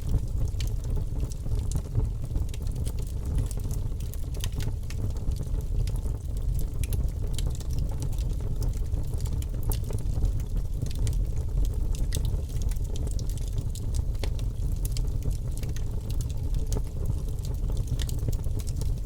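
Wood fire crackling steadily, with many sharp crackles over a constant low rumble.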